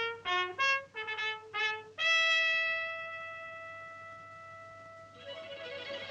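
Orchestral film music: a trumpet fanfare of short, quick notes, then one long held note that slowly fades away. A shimmering string texture comes in near the end.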